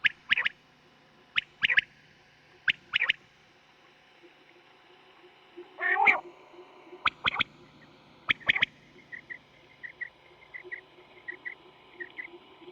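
Common quail (batair) calling: a sharp three-note call, one short note then a quick pair, repeated about every second and a half. About six seconds in comes a longer, lower-pitched call, and near the end fainter short paired chirps.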